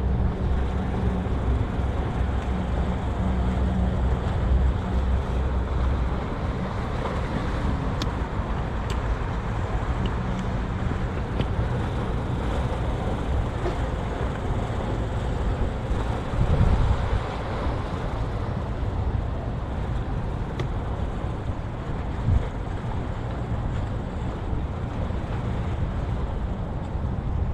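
Windy outdoor waterfront ambience: a steady wash of wind and distant city noise, with a low engine hum that fades out about six seconds in. Two brief low thumps come later, one in the middle and one near the end.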